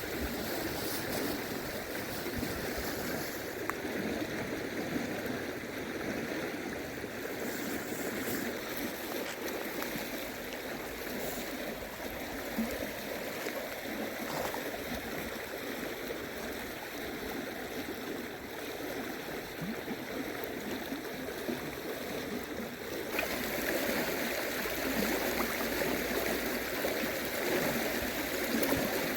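River water flowing with a steady rush. About 23 seconds in, the sound becomes louder and fuller.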